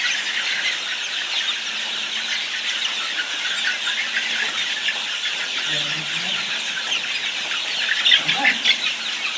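A large flock of grower-age chickens in a poultry shed, with many overlapping high cheeps and squeals running on without a break.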